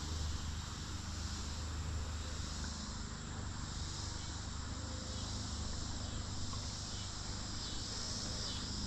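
Steady, high-pitched chorus of insects chirring without a break, over a low steady rumble.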